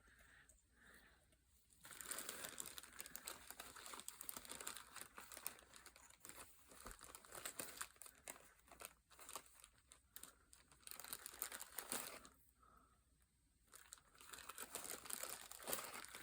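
Paper rustling and crinkling as it is handled and folded, in two stretches with a short pause between them.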